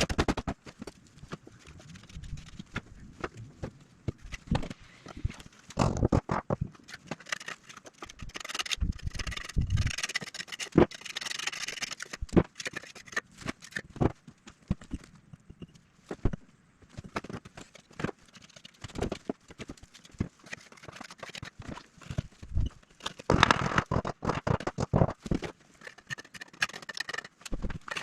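Irregular knocking and tapping with bouts of scraping: hand work with tools and building materials.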